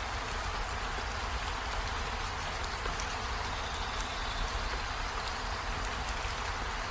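Waterfall water rushing in a steady, unbroken roar of falling water.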